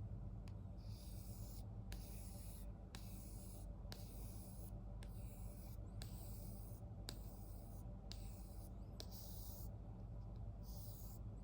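Knife blade (a Spyderco Native 5 in CPM 4V steel) being drawn edge-trailing across a 3-micron strop with light pressure: soft, faint swishing strokes about one a second, each starting with a light tick as the blade is set down.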